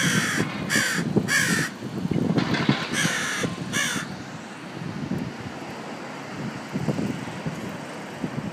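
A bird giving a series of about six harsh, cawing calls in quick succession in the first four seconds, over a low steady rumble.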